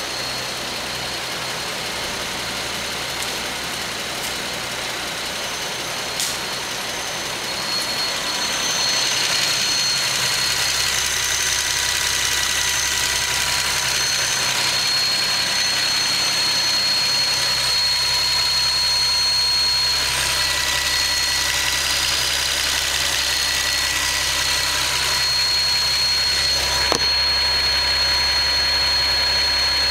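Nissan 370Z's 3.7-litre V6 idling with a Takeda short ram intake fitted, and a steady high-pitched whine running over the engine: the weird noise the owner hears from the intake setup. The engine gets a little louder about eight seconds in.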